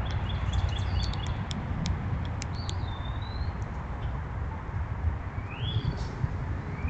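Songbirds calling in the background: a quick run of short chips at the start, a slurred whistled note about two and a half seconds in, and rising whistles near the end. Beneath them runs a steady low rumble, the loudest part, with scattered sharp clicks.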